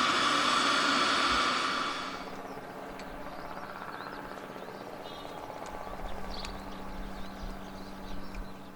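Cessna Citation CJ2 turbofan engine during start-up: a loud high whine with several steady tones that drops away suddenly about two seconds in, leaving a lower steady hum.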